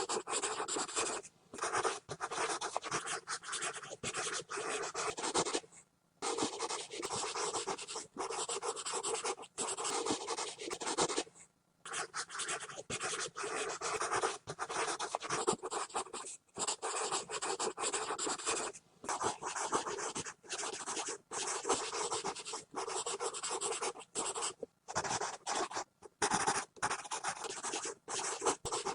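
Pencil scribbling fast and hard on paper, scratchy strokes in long runs broken by brief pauses where the lead lifts off.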